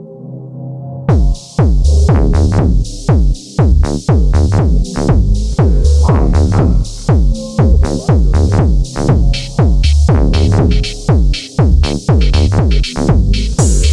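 Techno track: a held synth tone, then about a second in a drum-machine beat comes in hard, with punchy kicks that drop in pitch and crisp hi-hats over a bass line.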